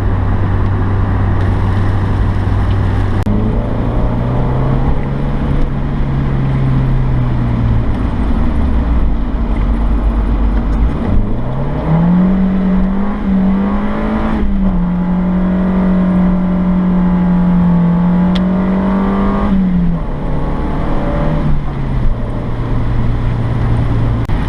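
1995 Mazda Miata's 1.8-litre four-cylinder engine pulling under throttle. Its pitch climbs, falls away around eight to eleven seconds in, rises higher and holds steady for several seconds, then steps back down near the end. A steady rush of road and tyre noise runs underneath.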